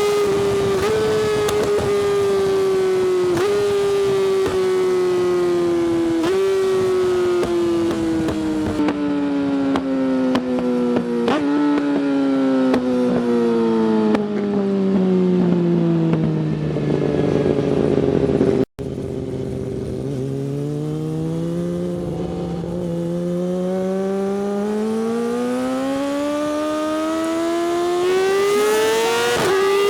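Yamaha R6 inline-four sport bike engine through an Akrapovič exhaust, slowing down: the revs fall steadily, with a short jump up at each of several downshifts, about every two to three seconds, down to a low burble. After a brief cut-out about two-thirds in, the revs climb smoothly and steadily as the bike accelerates again.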